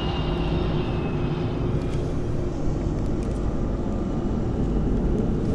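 U-2 Dragon Lady's jet engine running at taxi power, a steady low rumble with a faint high whine that drops slightly in pitch and fades about a second and a half in.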